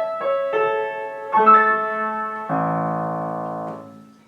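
Piano music: a short melody of single struck notes, then a full chord about two and a half seconds in that is held and fades out near the end.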